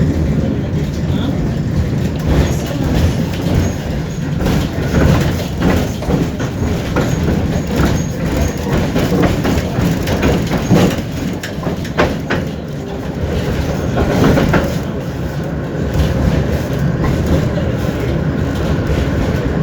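A tram running along its line, heard from inside the car: a steady low rumble of the running gear with wheels clacking and knocking over rail joints.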